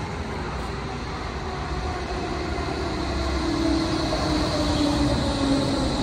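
Berlin S-Bahn electric train pulling into the station, growing louder as it nears and slowing alongside the platform, its motor whine falling in pitch as it brakes.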